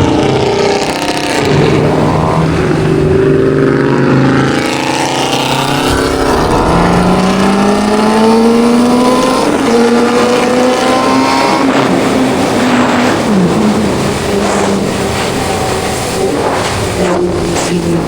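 Suzuki GSX-R600 sport bike's inline-four engine accelerating hard, its pitch climbing in several steps with a short drop at each gear change, then easing off, over steady wind noise.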